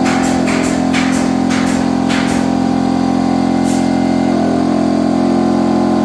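A motor running with a steady hum, with sharp knocks about three a second for the first two seconds and one more a little later.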